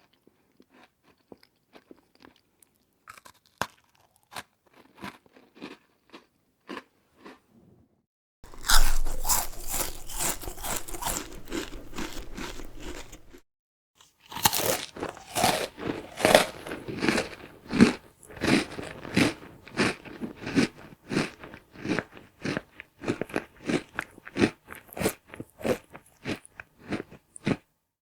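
A person chewing crunchy snack food, heard as three separate takes. First come faint, scattered crunches. Then a burst of loud, dense crunching stops after about five seconds, and after a short gap comes steady, rhythmic crunching chews, about three every two seconds.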